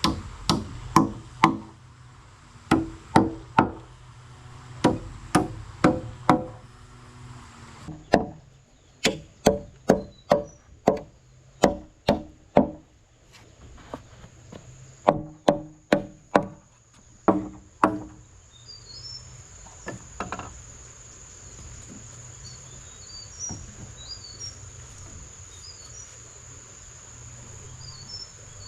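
Rapid sharp strikes of a tool on wood, in runs of about two blows a second with short pauses between runs, stopping about 18 seconds in. A steady high insect drone runs behind, with small bird chirps in the last part.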